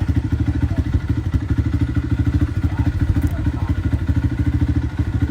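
Dirt bike engine idling steadily, a fast, even pulse.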